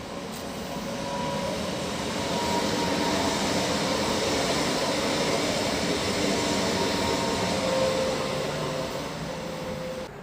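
EN78A electric multiple unit running through the station, its noise building over the first two seconds, then holding steady with faint whining tones. It cuts off abruptly near the end.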